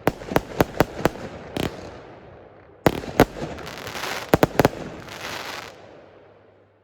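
Consumer fireworks going off: a rapid series of sharp bangs, then a louder crack about three seconds in followed by crackling hiss and a few more bangs, dying away near the end.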